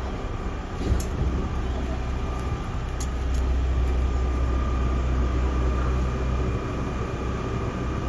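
Cabin of a JR 311 series electric train standing at a station: a steady low hum from the train's onboard equipment, with a couple of faint clicks.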